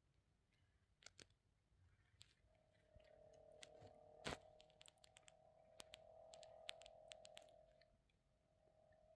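Near silence: faint scattered clicks, with a faint steady hum from about two and a half seconds in that fades near the end.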